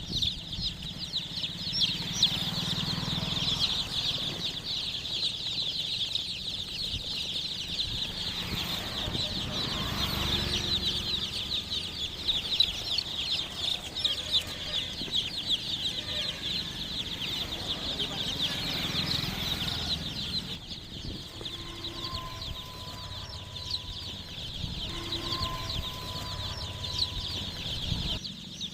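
A brood of chicks peeping nonstop, many high-pitched cheeps overlapping into a dense chorus.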